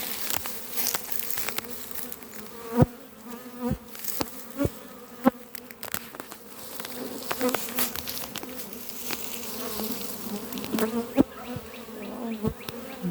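Honeybees buzzing around an opened hive, a steady hum with wavering pitches from bees flying close; the colony is agitated at the hive being split. Several sharp knocks come through it, the loudest about three seconds in and again near the end.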